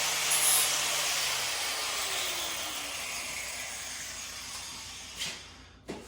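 A power tool's steady noise dying away over several seconds, its pitch sliding down as the motor spins down, then two short knocks near the end.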